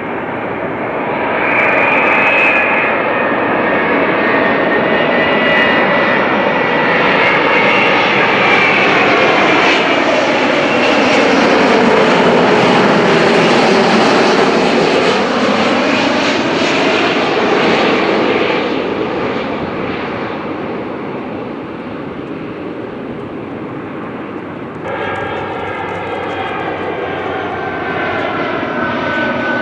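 Jet airliner engines roaring as the plane passes by, growing louder over the first couple of seconds, loudest around the middle, then easing off, with a sweeping, phasing quality as it moves.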